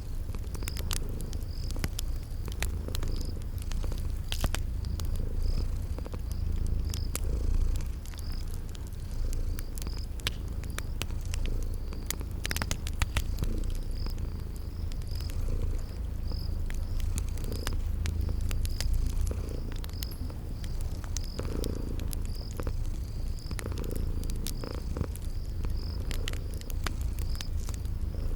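A domestic cat purring steadily and close, under a wood fire crackling with scattered sharp pops and snaps. Crickets chirp high and evenly, about once a second.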